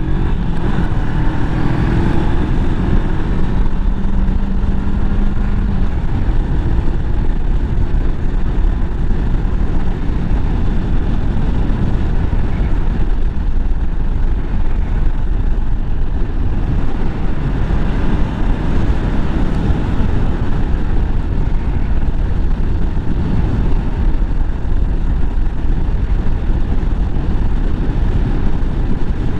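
Motorcycle on the move: wind rushing over the microphone with the engine running underneath. A steady engine tone fades into the wind noise about six seconds in.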